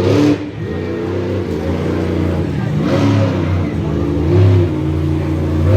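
Monster truck engine revving hard in repeated surges, its pitch climbing and dropping back several times.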